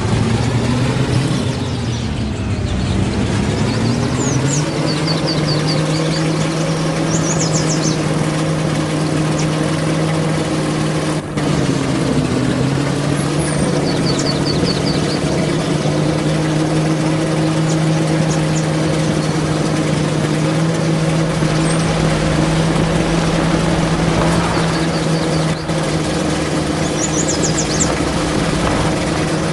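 Truck engine running steadily, its pitch dropping and climbing back a couple of seconds in, with another brief dip around eleven seconds. Short high chirps sound now and then above it.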